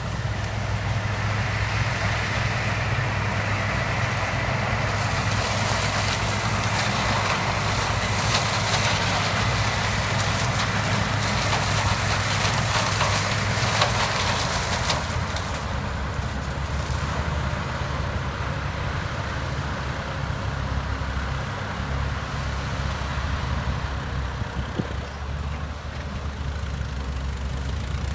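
Case 7000 sugarcane harvester running steadily under load, its diesel engine humming low throughout. From about five seconds in to about fifteen, a louder crackling, rustling noise rises over the engine as cane is fed through and chopped, then eases off.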